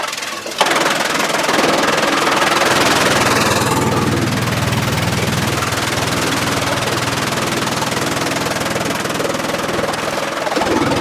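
Engine-driven machinery running steadily, starting abruptly about half a second in, with a low even throb under a dense noisy layer.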